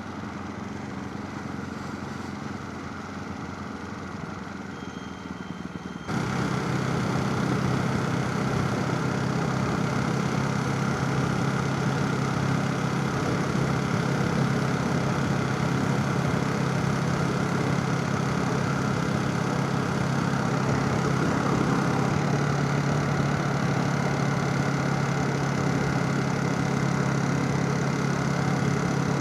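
Motorcycle engine running steadily with a low, even hum. It turns abruptly louder about six seconds in and settles to a slightly lower pitch near the end.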